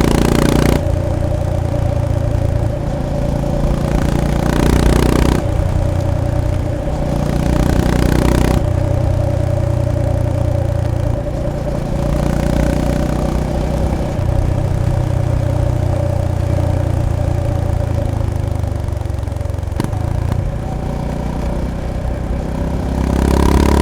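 Honda GB350S / CB350RS air-cooled single-cylinder engine and exhaust running under way. The throttle opens and eases several times, with louder pulls near the start, about five seconds in, about eight seconds in, and at the end.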